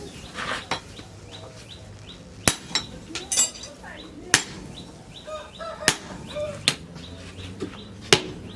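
Five hand-hammer blows on metal, spaced a second or more apart and unevenly, with chickens clucking in the background.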